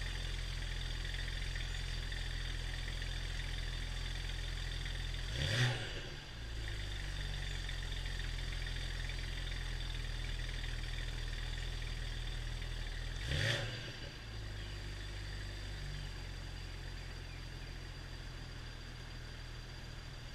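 BMW 335i's N54 twin-turbo inline-six, with downpipes and stock exhaust, idling after a cold start. It is revved twice in quick blips, about eight seconds apart, each rising and falling in pitch before settling back to a steady idle.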